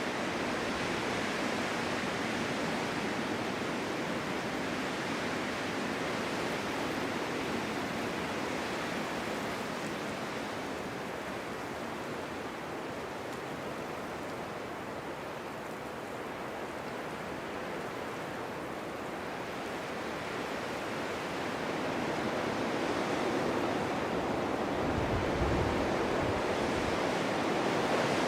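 Strong wind blowing steadily in a snowstorm, easing a little midway and gusting up again toward the end, with a brief low rumble of wind buffeting the microphone.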